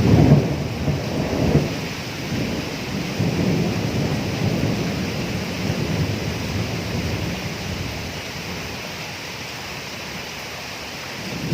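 Thunder over steady rain: a loud rumble breaks right at the start, with a second peak about a second and a half in, then rolls on and dies away over several seconds, and another rumble starts near the end. The hiss of rain runs steadily underneath.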